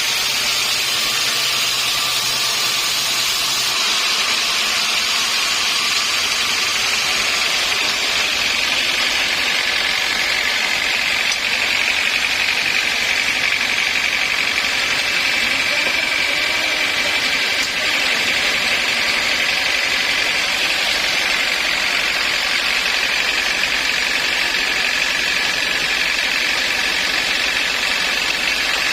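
Sawmill machinery running steadily, a loud continuous mechanical drone with a steady high whine that comes in partway through.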